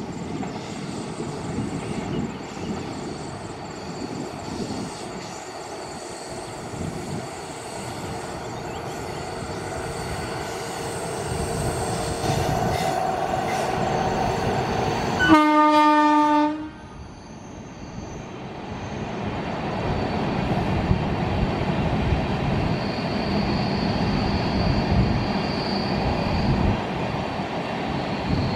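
Indian Railways passenger train rumbling along the track, growing louder as it approaches. Halfway through comes one long horn blast from the locomotive, about a second long, which cuts off suddenly. The coaches then roll past with a high wheel squeal on the curve.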